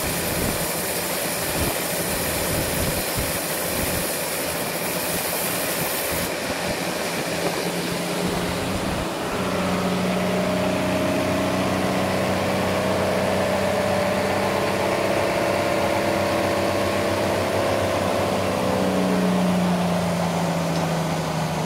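Sawmill engine running steadily. A high hiss over it stops about six seconds in, and from about nine seconds a steady humming tone with overtones comes through, drifting slightly in pitch near the end.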